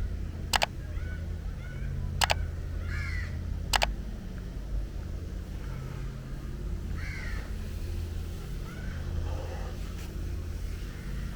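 Crows cawing repeatedly over a steady low rumble. Three sharp clicks, about a second and a half apart, in the first four seconds are the loudest sounds.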